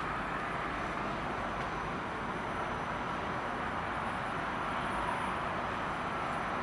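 An ICE high-speed train pulling into the station: a steady rushing rail noise of wheels on track and air, growing slightly louder toward the end.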